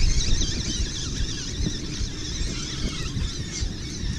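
A flock of seabirds calling over a school of feeding fish, many overlapping high, wavering cries, with wind buffeting the microphone underneath.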